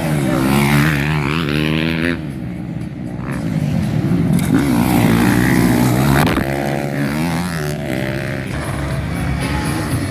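Several motocross bikes racing, their engines revving up and down through the gears as they pass, with a sharp knock about six seconds in.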